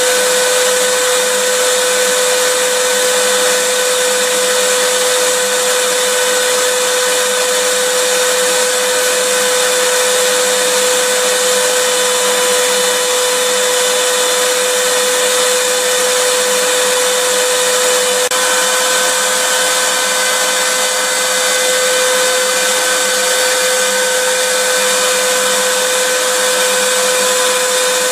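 Electric vacuum cleaner running steadily: a constant rush of air with a steady humming whine. The hum shifts very slightly in pitch about two-thirds of the way through.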